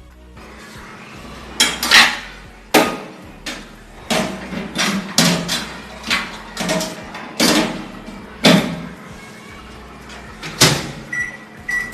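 A series of about a dozen irregular clunks and knocks, as of hard objects being handled and set down, followed near the end by two short high electronic beeps.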